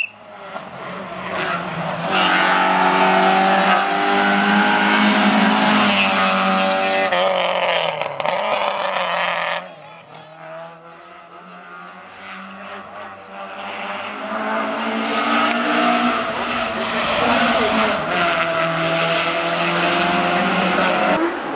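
Rally cars at full stage pace: a loud engine revving hard with pitch changes through the gears, plus tyre noise. It cuts off abruptly about ten seconds in, and another car's engine grows louder as it approaches near the end.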